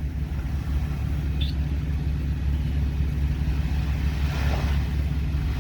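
Off-road Jeep's engine running steadily at low revs, a constant low rumble with no revving.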